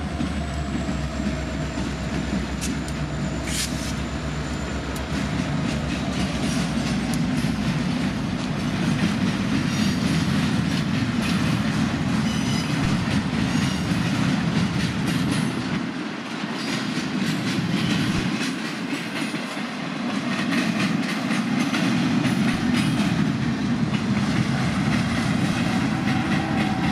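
A long freight train rolling past at close range. The diesel locomotives' low engine drone fades over the first few seconds, then loaded flatcars roll by with a steady wheel-on-rail rumble and clatter. A faint high squeal is heard in the first few seconds.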